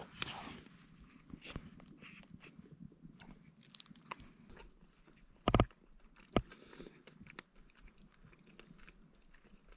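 Dog licking and chewing, a run of small wet mouth clicks, with two louder knocks about five and a half and six and a half seconds in.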